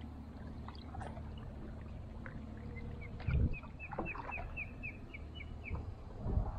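A bird calling a quick run of about a dozen short, high chirps over a couple of seconds, over a low rumble of wind and water; a dull thump sounds a little over three seconds in.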